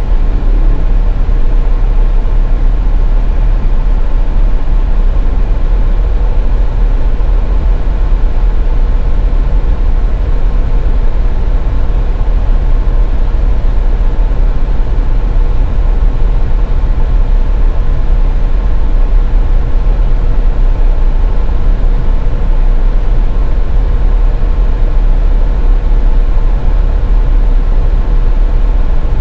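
Steady road noise of a car driving on the highway: a continuous low rumble of engine and tyres, with a faint steady hum over it.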